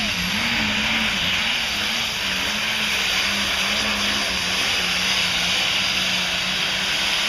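Four-turbocharged diesel pulling tractor at full power during a pull, running loud and steady. The engine note wavers for the first few seconds, then holds steady.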